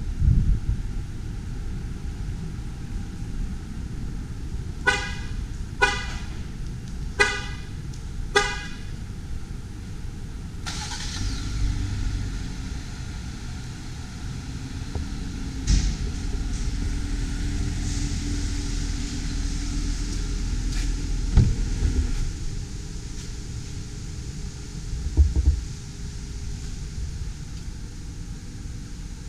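Jeep Gladiator Rubicon's horn chirping four short times, about a second apart. A steady low hum follows, with a few sharp knocks.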